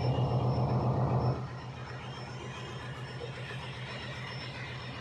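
A low, fast-pulsing engine-like hum, louder for the first second and a half, then dropping to a quieter steady level.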